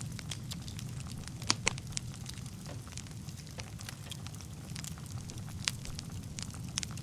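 Wood fire burning in a fireplace: a steady low rumble of flames with frequent sharp crackles and pops. A few pops stand out louder, a couple about a second and a half in and one near the end.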